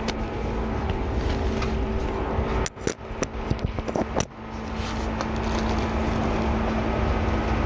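Cabin running noise of a Seibu 2000 series electric train: a steady rumble of wheels on rail, with an even hum from the drive, at a steady speed. About two and a half seconds in, the noise drops away for about a second and a half while a cluster of sharp clicks sounds, then the running noise comes back.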